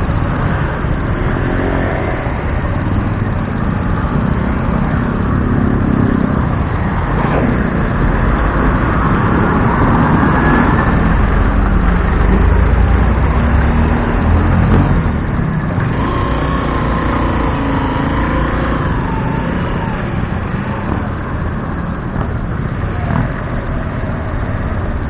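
Motorcycle riding in traffic, heard from the rider's mic: a steady, loud rumble of engine and road noise with surrounding vehicles.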